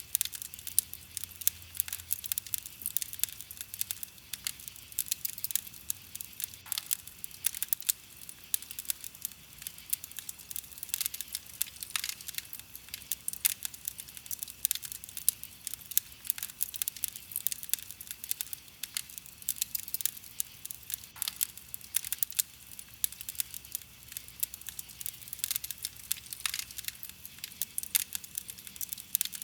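Burning wood in a campfire crackling, a dense run of small sharp pops and snaps several times a second, with the odd louder pop standing out.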